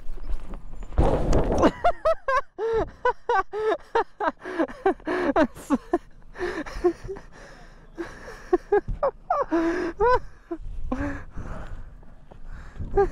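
A man's voice in a string of gasps, grunts and cries without clear words. A loud rushing noise comes about a second in.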